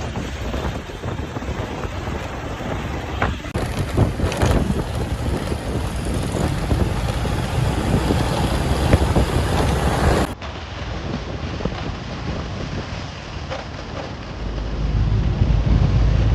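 Heavy truck and highway traffic running past, with wind buffeting the microphone. The sound changes abruptly twice, and a deep rumble swells near the end.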